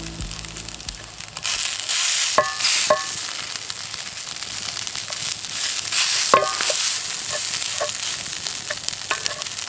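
Onions sizzling as they fry and brown in a pan, stirred now and then with a utensil.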